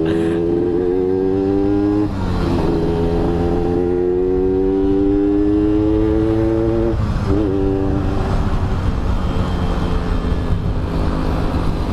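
Yamaha RX-King's two-stroke single-cylinder engine pulling under way: its pitch climbs, drops at a gear change about two seconds in, climbs again for about five seconds, drops at another shift, then holds steady.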